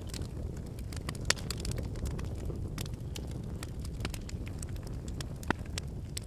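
Wood campfire burning: a steady low rush of flames with frequent sharp crackles and pops from the burning logs, the loudest pops about a second in and again about five and a half seconds in.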